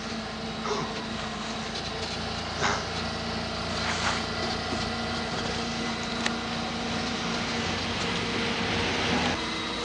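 A steady mechanical hum, like a vehicle or machine running, with a few brief higher sounds about two and a half and four seconds in.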